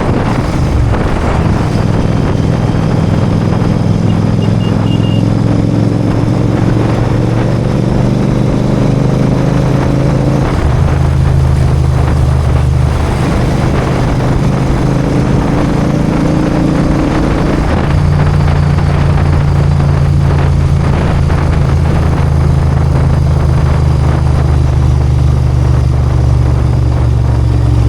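Royal Enfield Continental GT 650's 648 cc parallel-twin engine and exhaust under way: the engine note climbs slowly twice, dropping at each upshift about ten and eighteen seconds in, then runs steady.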